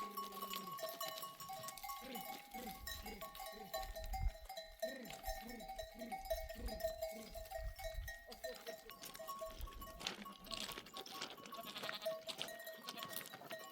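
Flock of sheep and goats bleating, a run of short calls in the first half, over a steady high ringing.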